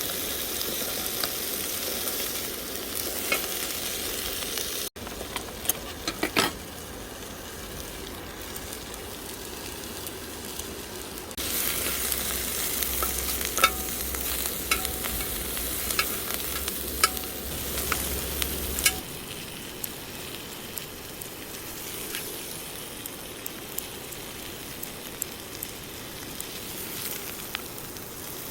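Makchang and garlic sizzling in a hot pan, with scattered sharp clicks of a metal utensil against the pan as the pieces are stirred and turned. The sizzle drops in loudness about five seconds in and is louder again from about eleven to nineteen seconds.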